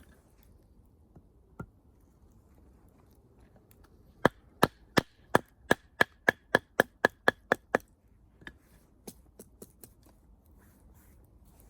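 Firewood being chopped or tapped with a hatchet. There is a quick run of about a dozen sharp knocks, three to four a second, each with a light ringing note. A few fainter knocks follow.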